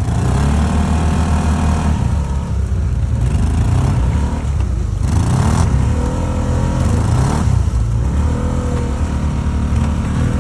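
ATV engine revving hard in repeated surges, its pitch rising and falling several times, with a brief noisy burst about five seconds in.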